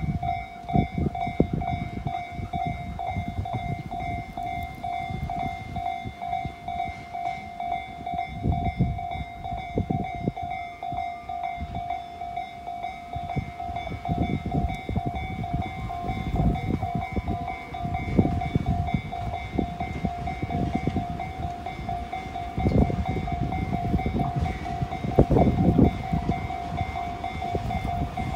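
Tobu 50050-series electric train approaching on the line, growing louder over the last few seconds, under a steady high ringing tone that starts at the outset and runs on throughout, with irregular low rumbling gusts.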